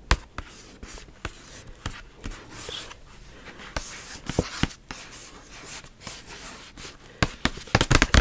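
Close-miked handling sounds: light scratching and rustling with scattered soft clicks and taps, getting busier near the end.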